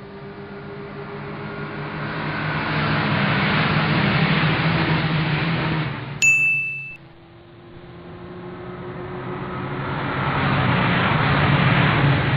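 Road vehicle engine and road noise building steadily as it speeds up, cut off abruptly about six seconds in by a single sharp ding, then building again.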